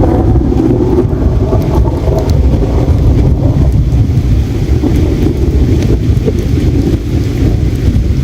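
Flowing river water as a loud, steady low rumble, with a few faint crackles from a campfire.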